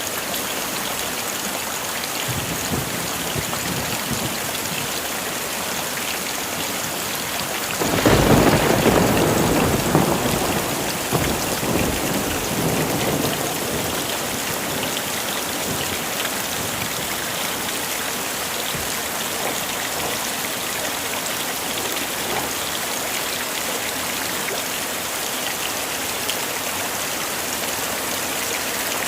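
Steady heavy rain. About eight seconds in, a sudden clap of thunder breaks in and rumbles for several seconds before fading back under the rain.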